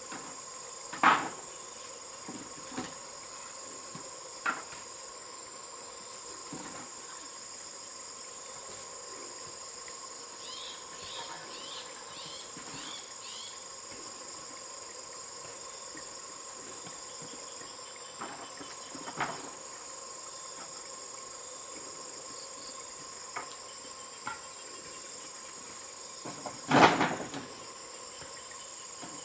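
Insects droning steadily at a high pitch, with a few scattered knocks and clunks of handling work, the loudest near the end.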